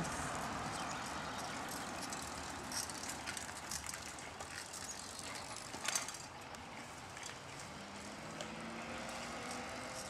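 A child's bicycle with training wheels rolling along, its tyres giving a steady hiss with scattered light clicks and rattles, and a louder clatter about six seconds in.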